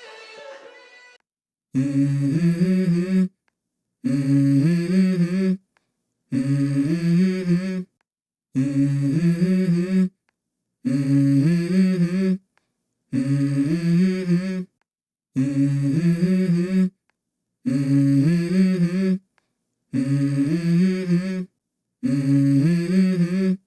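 A short hummed vocal melody plays as a loop: the same phrase of about a second and a half repeats about ten times, with a brief silent gap between repeats. The song before it fades out in the first second.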